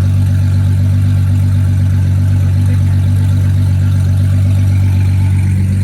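Heavily modified Nissan GT-R making about 1,800 hp, its engine idling loud and steady with a deep, even drone.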